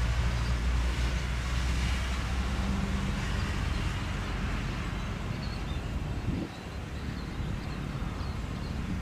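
Jet airliner engine noise: a steady rush with a deep rumble that drops off about six and a half seconds in.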